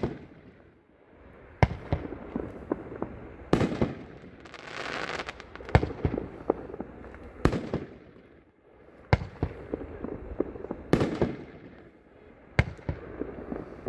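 Consumer firework cake, a 9-shot Double Doozy with double ring breaks, firing: seven sharp, echoing reports about every two seconds, with smaller crackling pops in between.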